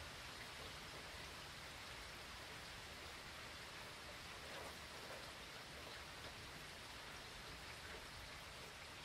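Faint, steady rain from Hurricane Florence falling, with a few distinct drops tapping about halfway through.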